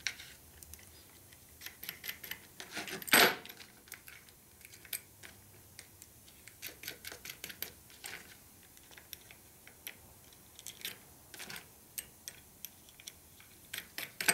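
Small steel bolts, nuts and washers clinking as they are handled and fitted, in many sharp separate clicks, with one short, louder burst about three seconds in from a zip gun running a nut down.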